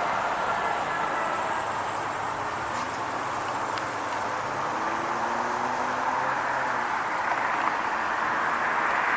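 Road traffic noise: a steady rush that dips in the middle and swells again near the end, with a constant thin high-pitched whine above it.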